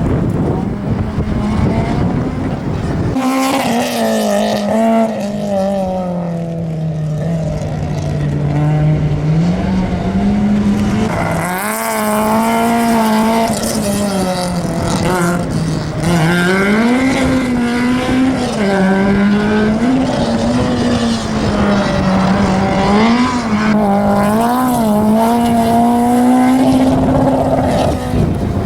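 Citroen AX GTI's four-cylinder engine working hard through a slalom, revs climbing and dropping again and again as the car accelerates and slows between the gates.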